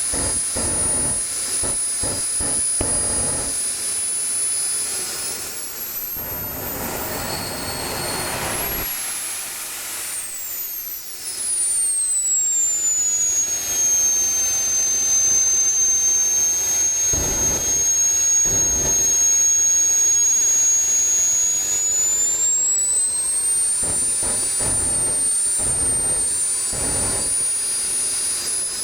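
Small model jet turbine of an RC drag car running with a high whine over a rushing exhaust hiss. The whine slides down in pitch about ten seconds in, holds steady, then climbs again near the end, with intermittent low rumbles underneath.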